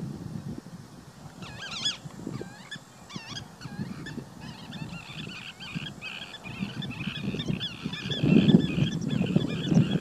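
Birds calling in a rapid, continuous series of high, wavering calls that start about a second and a half in, over a low, irregular rumble that grows loudest near the end.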